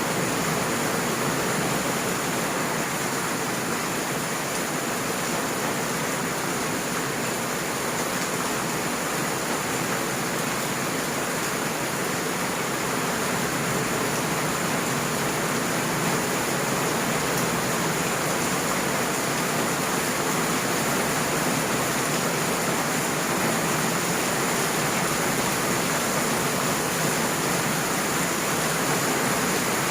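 Heavy rain falling steadily: a constant, even rushing hiss with no let-up.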